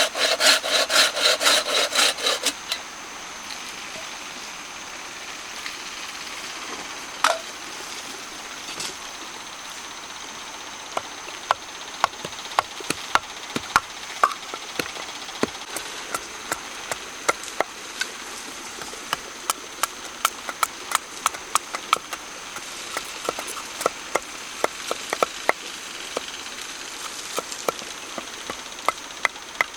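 A hand saw cuts wood with quick back-and-forth strokes, about three or four a second, and stops about two seconds in. After that come scattered light, sharp knocks and clicks, more frequent in the second half, over a faint steady hiss with a thin high tone.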